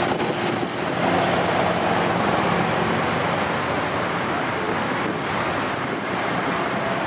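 Harley-Davidson touring motorcycle's V-twin engine running at low speed as the bike rides close past, its tone fading over the first three seconds. Other motorcycles run further off under heavy wind noise on the microphone.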